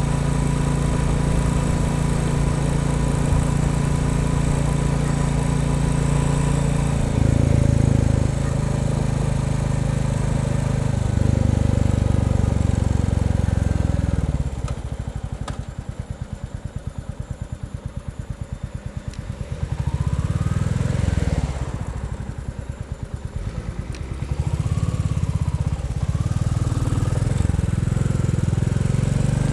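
Royal Enfield Bullet 350 single-cylinder engine running on the road, pulling steadily under load, then backing off twice for a few seconds, with the separate firing beats showing, before pulling again. Under load the owner hears a wooden rattle or buzz in time with the firing, which Bullet owners take as normal for a new engine not yet run in.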